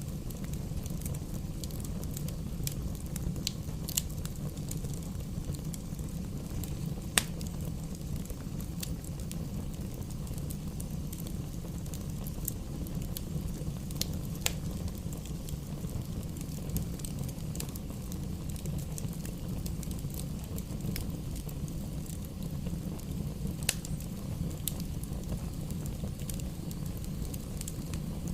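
Campfire burning, with scattered sharp crackles and pops, the loudest about seven seconds in, over a steady low rumble.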